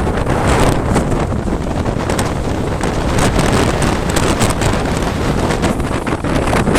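Strong gusting wind buffeting the microphone, a loud, unbroken rush with a heavy low rumble and rapid crackling surges from the gusts.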